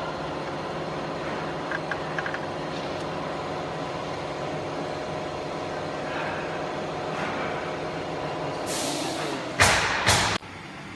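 Steady machine hum made of several level tones. Near the end a hiss rises into two loud bursts of rushing air noise that cut off suddenly.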